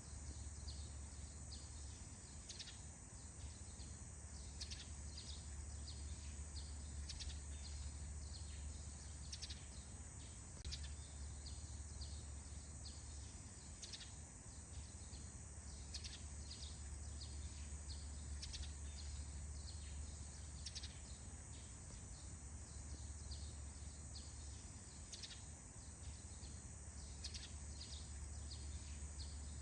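Dawn birdsong in a forest: many short, high chirps repeating every second or so, faint, over a steady high hiss and a low rumble.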